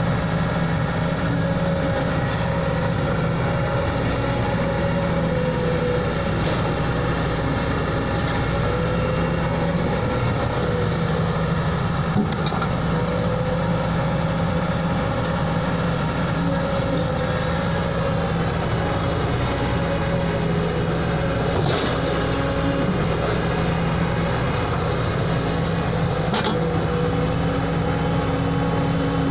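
Heavy diesel engine running steadily, its pitch rising and falling a little, with a few brief knocks.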